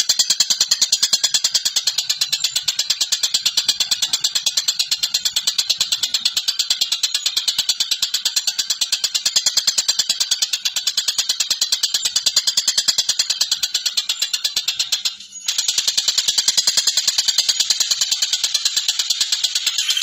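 Caged tengkek buto calling without let-up in a rapid, harsh, high chatter of about five notes a second. It breaks off briefly about fifteen seconds in, then resumes.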